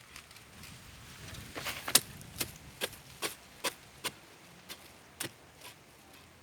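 A run of sharp knocks, about two or three a second, the loudest about two seconds in, over a low rumble in the first half.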